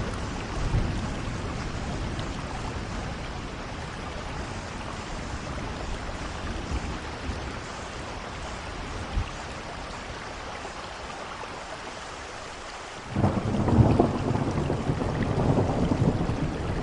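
Steady rain with rolling thunder: the rumble fades away over the first part, then a new loud thunderclap breaks in suddenly about three-quarters of the way through and keeps rumbling.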